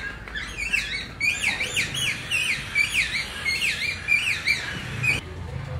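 Birds chirping: a rapid run of high, sweeping whistled notes, several a second, that breaks off suddenly about five seconds in.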